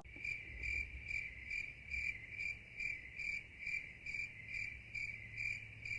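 Cricket chirping: a high, even trill pulsing about twice a second.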